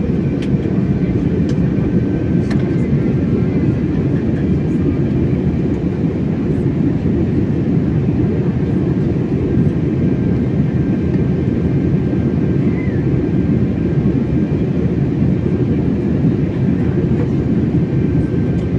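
Passenger airliner in flight: a steady, deep rumble of engines and rushing air that does not change, with a faint high steady whine above it.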